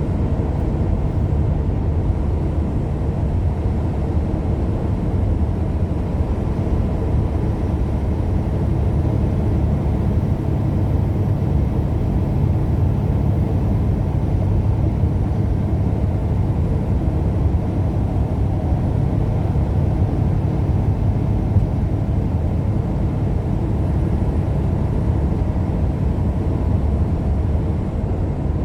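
Steady engine and road drone inside the cab of a truck cruising at speed, even throughout.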